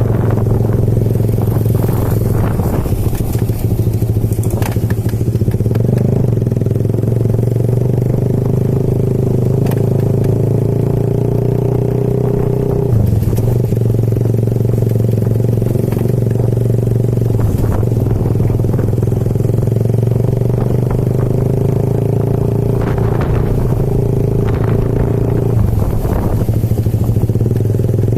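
Motorcycle engine running steadily while riding, its note shifting briefly about halfway through and again near the end.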